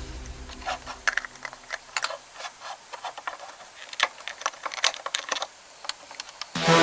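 Lego bricks clicking and tapping as they are handled and pressed together: irregular light plastic clicks, a dozen or so spread over several seconds. Background music fades out in the first second and comes back in near the end.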